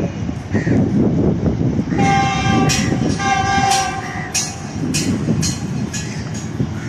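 GEU 40 diesel locomotive sounding its horn in two blasts about two seconds in, over the rumble of the passing train. Sharp clacks of wheels over rail joints follow at a steady rate.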